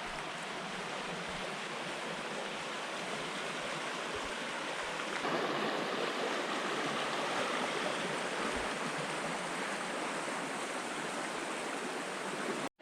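Rushing water of the Peshtigo River rapids, a steady hiss that grows louder about five seconds in. The sound drops out for an instant just before the end.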